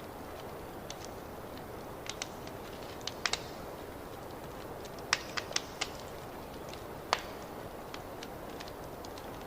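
Wood fire crackling: a steady low rush with scattered sharp pops and snaps, the loudest cluster about five seconds in and a single loud snap about seven seconds in.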